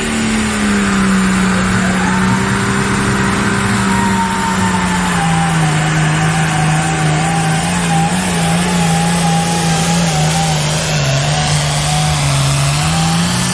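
Diesel pulling tractor running flat out under load on a full hook, one loud continuous engine note. The note sags slowly lower through the pass as the sled bears down on it.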